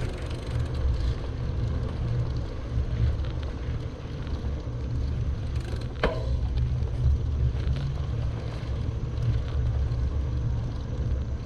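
Low, fluctuating rumble of wind buffeting the microphone on a moving bicycle, with one sharp click about six seconds in.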